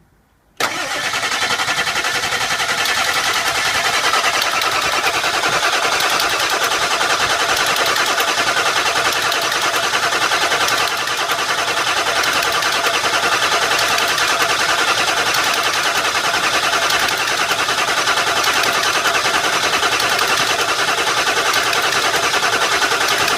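Ford F-350 engine turning over on its starter motor, starting abruptly about half a second in and cranking steadily for over twenty seconds without catching: a crank-no-start.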